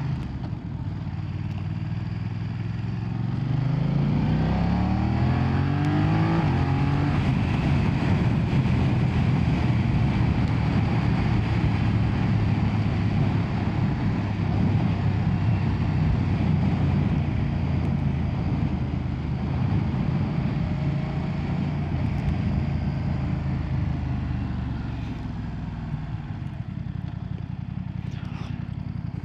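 BMW F900R's 895cc parallel-twin engine under way, its pitch climbing as the bike accelerates in the first seven seconds or so, then holding steady at speed with wind noise over it. The engine eases off near the end.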